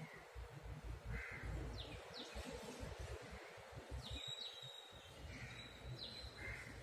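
Birds calling faintly: a few short harsh calls and several quick high chirps, over a low irregular rumble.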